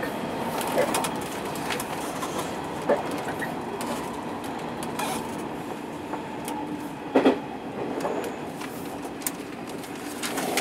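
Hanshin Railway electric train running at speed, heard from inside the front car: a steady rumble of wheels on rail with scattered clicks and knocks. The sharpest knock is a quick double one about seven seconds in.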